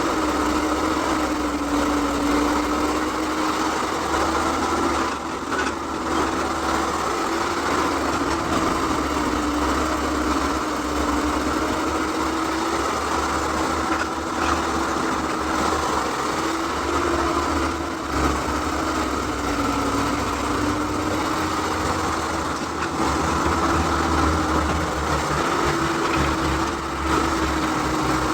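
Excavator's diesel engine running steadily under work, its pitch wavering slightly up and down.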